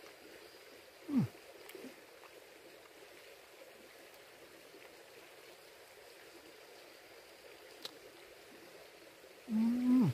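Steady rush of river water. A person makes a short, low falling hum about a second in and a longer, louder held "mmm" near the end, sounds of someone enjoying food.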